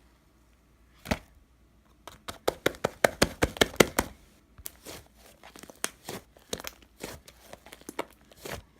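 Slime being squeezed and pressed by hand, giving quick sticky clicks and pops, densest from about two to four seconds in and sparser after.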